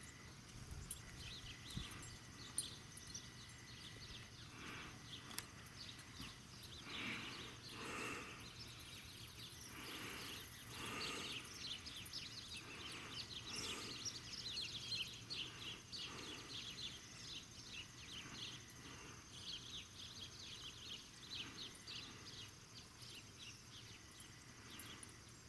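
Birds chirping in quick runs of short calls over faint outdoor background noise, with a couple of brief faint clicks in the first few seconds.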